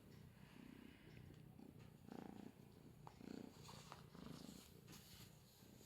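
A straight-eared Scottish Fold kitten purring faintly, the purr swelling about once a second with each breath, with a few faint ticks over it.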